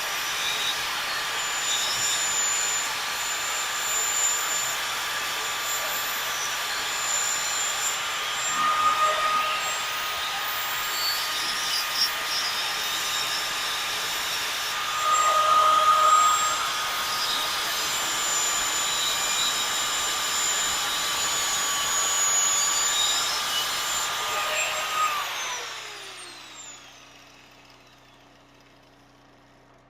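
Cut-off grinder with a worn-down cutting disc cutting through welds on stainless steel exhaust tubing, a steady high whine that dips slightly as the disc bites, louder about halfway through. About 25 seconds in it is switched off and winds down in falling pitch.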